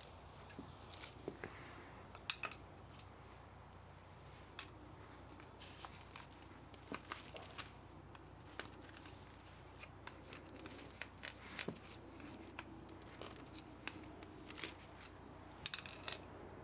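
Hand tools working at an electric pump motor being stripped for scrap metal: irregular sharp clicks and snips, some in quick clusters, over a faint steady hum.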